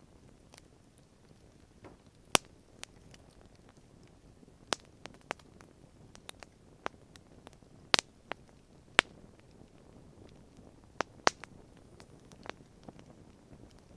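Wood campfire crackling: irregular sharp pops and snaps, a few much louder than the rest, over a quiet low hiss.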